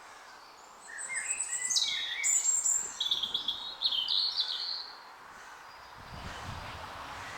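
A songbird singing a loud song of quick, varied high phrases and trills for about four seconds, starting about a second in. Near the end a low rushing noise rises.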